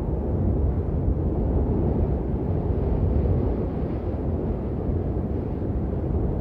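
Steady heavy rain, a dense, unbroken deep rushing noise with little high hiss.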